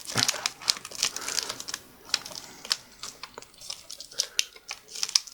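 Irregular small clicks and crinkling from fingers working an adhesive-taped ribbon cable loose from the back of a laptop LCD panel. The ticks come thickest in the first couple of seconds and thin out later.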